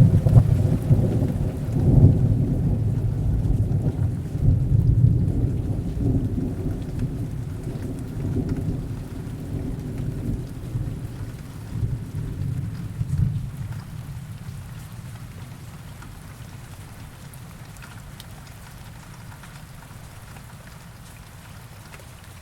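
A long roll of thunder that breaks suddenly, rumbles with several swells over about a dozen seconds and slowly dies away, over steady heavy rain.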